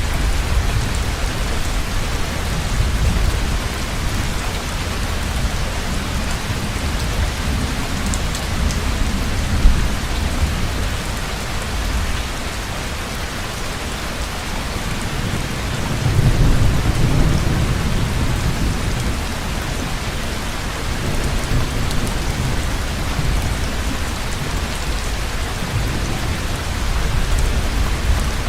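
Heavy rain falling steadily, with low rolls of thunder rumbling under it; the loudest roll comes about sixteen seconds in.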